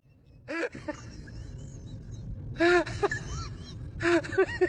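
Short, high-pitched squeaky calls from an animal, each rising and falling in pitch, in a few quick runs with gaps between, over a low background hum.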